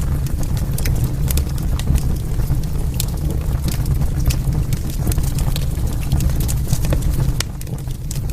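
Wood fire burning in a fireplace: a steady low rumble of flames with many sharp, irregular crackles and pops, several a second.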